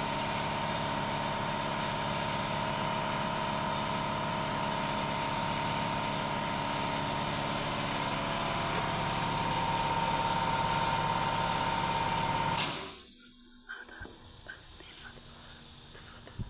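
Toyota 2GR V6 engine idling steadily with a high steady whine. About three-quarters of the way through, the sound cuts off suddenly, leaving only a faint hiss.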